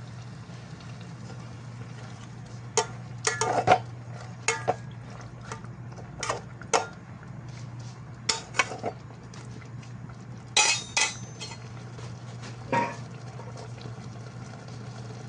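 Dishes and metal utensils clinking and knocking irregularly, about a dozen sharp strikes, some briefly ringing, over a steady low hum.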